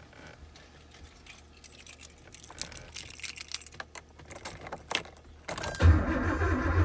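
Keys jangling and clicking at the ignition, then near the end a sudden loud, steady buzzing chatter from the Porsche as the key is turned to start, without the engine cranking: a sign of a dead battery, as the owner judges it.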